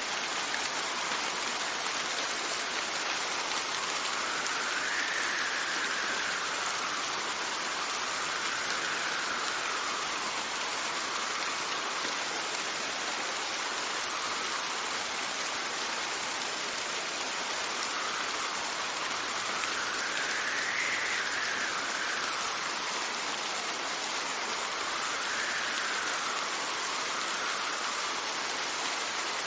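Steady rain falling, with wind gusting over it: a faint whistle rises and falls in pitch every few seconds.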